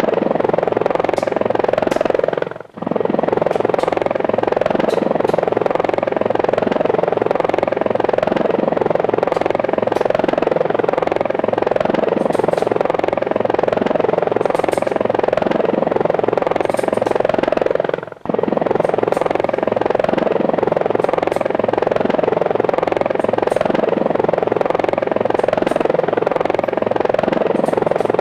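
Steady buzz of a small remote-control camera aircraft's electric motors and rotors in flight, heard close up from on board. It drops out briefly twice.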